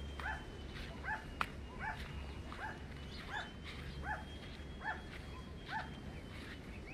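A dog barking over and over at a steady pace, roughly one bark every three-quarters of a second.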